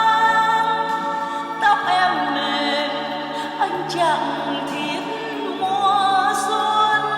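Music: long held sung notes over choir-like backing voices, sliding in pitch between notes, with no clear words.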